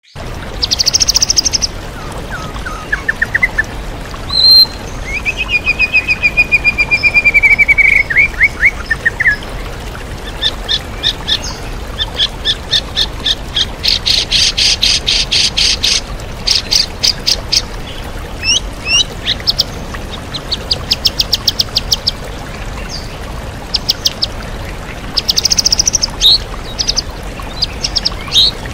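White-rumped shama (murai batu) singing a varied song full of mimicked phrases of other birds: whistles, a long falling whistle, fast trills and rapid series of chips. A steady waterfall rush runs underneath.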